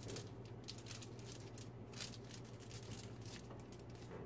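Aluminium foil crinkling and crackling in irregular short bursts as it is folded and creased into a sealed packet, over a steady low hum.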